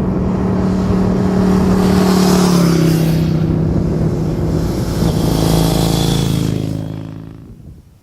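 A motor vehicle passing by on the road. Its engine hum and tyre noise swell, the pitch drops as it goes past, and the sound fades away.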